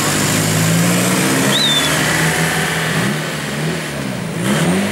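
Volkswagen Passat saloon accelerating hard away from a standing start, its engine revving up through the gears. The engine note is steady at first, then climbs in several short rising sweeps near the end as it pulls away and grows fainter.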